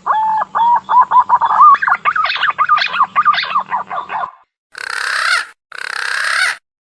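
Punai daun green pigeon lure call: a quick run of warbling whistled notes lasting about four seconds, followed by two hoarse, hissing notes about a second apart.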